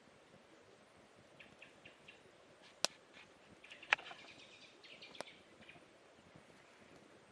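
Birds chirping in short quick runs of notes, with three sharp clicks in the middle.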